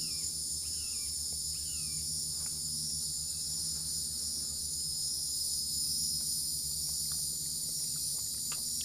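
Steady chorus of insects buzzing and chirping in several high, unbroken bands. A few short falling chirps sound over it in the first couple of seconds.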